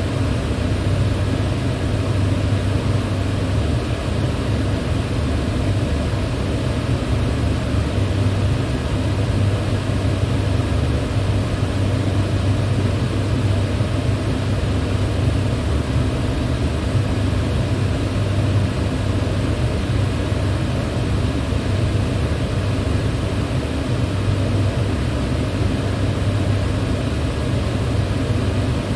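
Electric fan running steadily, a constant rush of air over a low motor hum, with no change in speed.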